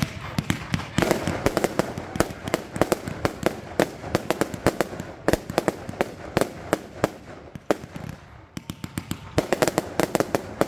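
Fireworks going off in a rapid string of bangs and crackles, densest in two clusters, with a brief thinning a little after eight seconds in.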